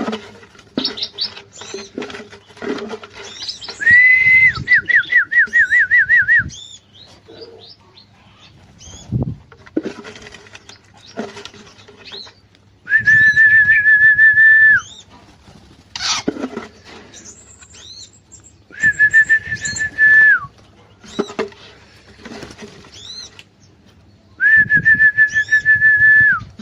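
Long, steady whistled notes of about two seconds each, four times, the first breaking into a warbling trill, with many short chirps and calls of bulbuls in an aviary between them.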